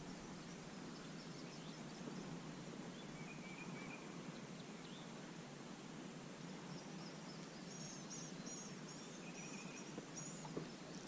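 Faint outdoor ambience: a steady background hiss with small birds chirping now and then, and a run of short chirps about seven to ten seconds in.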